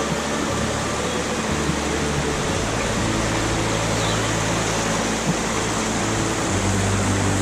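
A steady rushing noise under background music, whose low sustained notes change every second or two.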